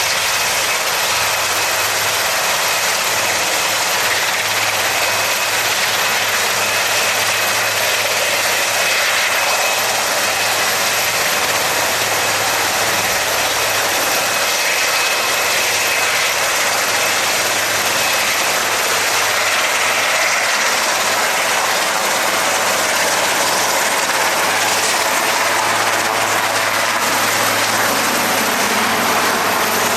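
Helicopter flying: steady, loud engine and rotor noise.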